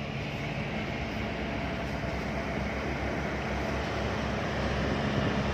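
Diesel engines of heavy container trucks pulling uphill, a steady low drone that grows slowly louder as they come closer.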